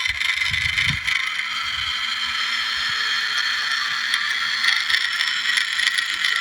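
Small electric drive motor and gearbox of a remote-control toy tractor whining steadily as it drives, with a couple of low bumps about a second in.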